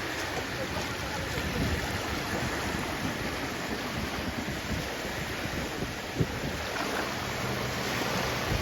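Sea waves washing on the shore, a steady rushing noise, with low rumbling from wind on the microphone.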